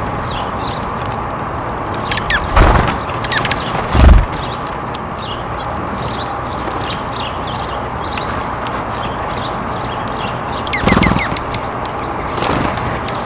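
Small birds chirping with short high calls over a steady hiss of background noise. Several loud, short rustling thumps close to the microphone break in about two and a half seconds in, at about four seconds (the loudest), and again near eleven and twelve and a half seconds.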